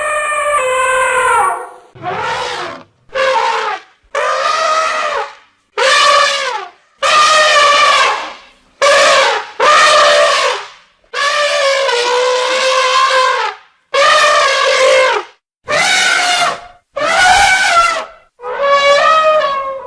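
A series of about a dozen loud, brassy, horn-like animal calls, each about a second long, with short silent gaps between them.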